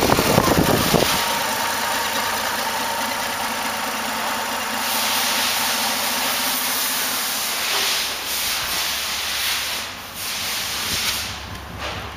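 Toyota Granvia's 5VZ-FE V6 engine running. A deep low sound drops away about a second in, leaving a steady hiss with a faint hum.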